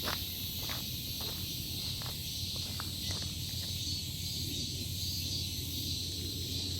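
Cicadas singing in a steady high-pitched chorus, with a few footsteps in the first three seconds.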